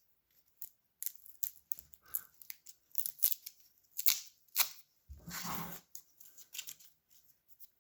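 Light handling sounds: scattered small clicks and taps, with a short rustle a little after five seconds in.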